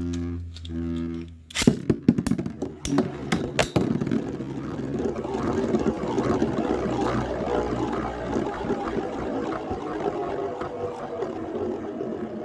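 Three short tones, then a sharp clack as two Beyblade metal spinning tops are launched into the stadium and knock together several times. They spin on with a steady whirring rattle that slowly eases.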